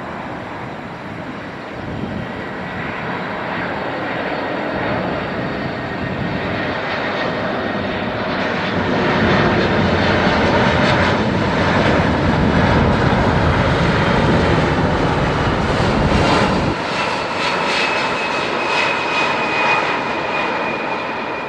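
Boeing 747 jet engines running, growing louder to a peak about two-thirds of the way through and then easing off, with a high whine coming through near the end.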